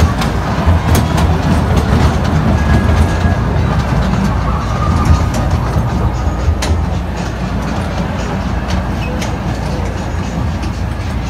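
Miniature railway carriage running along the track, heard from on board: a steady low rumble of the wheels with occasional sharp clicks. The rumble eases a little after about seven seconds.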